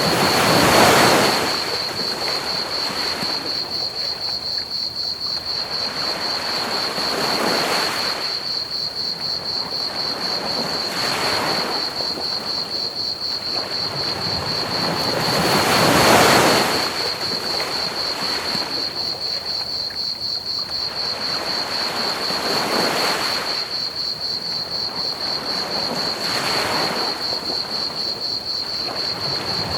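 Ocean waves washing onto a beach, swelling and falling back about six times, loudest about a second in and again about halfway. Under them runs a steady, rapidly pulsing high chirring of crickets and a constant pink-noise hiss.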